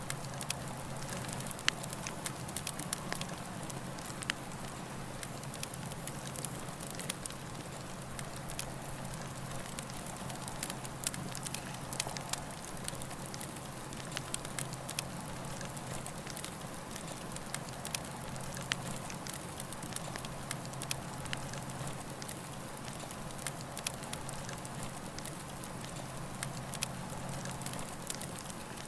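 Campfire burning with a steady hiss and irregular sharp crackles and pops of the wood.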